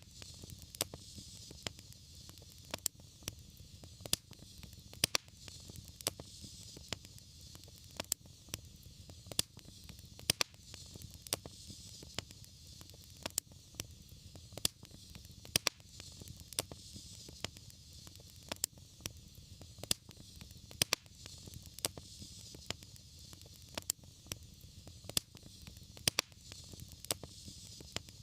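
Wood fire crackling in a fireplace: sharp pops and snaps, about one or two a second, over a steady low rumble and soft hiss.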